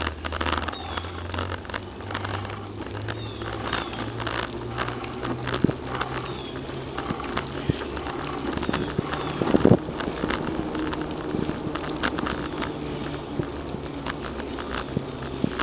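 Bicycle riding along a trail, heard from the bike: steady rattling and crackling of the bike and camera over the trail surface over a low hum, with sharper knocks about six and ten seconds in.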